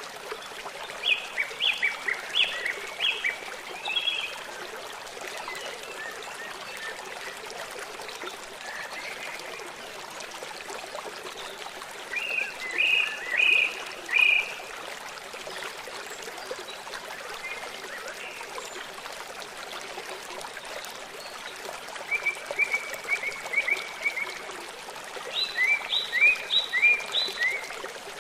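Songbirds singing in short phrases of quick, repeated down-slurred notes, four bursts in all, one of them a fast trill on a single pitch, over the steady rush of a flowing stream.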